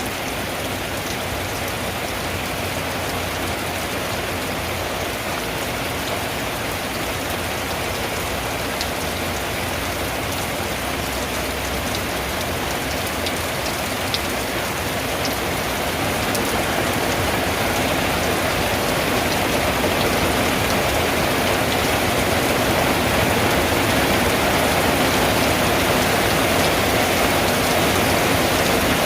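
Rain falling on a tin roof: a dense, even hiss with a few sharper drop ticks, getting louder about halfway through.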